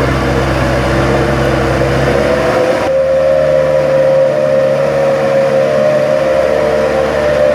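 Vehicle engine running with a steady drone. About three seconds in, the sound changes abruptly to a higher, steadier tone.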